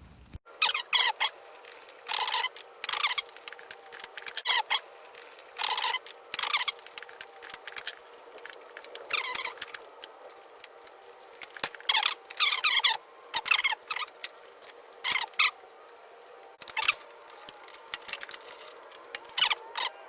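Short bursts of metallic clicking and squeaking, repeated every second or two, as the mower's recoil starter housing is unfastened and opened with hand tools.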